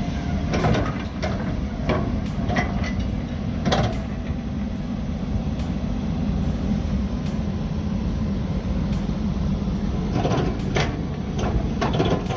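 Heavy-duty truck engine running steadily with a low rumble, overlaid by a series of sharp knocks and clanks in the first few seconds and again near the end.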